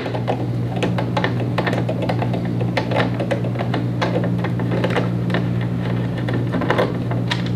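Irregular small clicks and ticks of a screwdriver and screws being worked out of the back of a monitor, over background music with a steady low hum.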